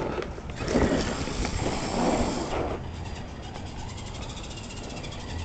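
Redcat Everest 10 RC monster truck driving, its brushed electric motor and drivetrain running with the tyres working over the ground. A louder rush for the first couple of seconds, then the truck goes quieter.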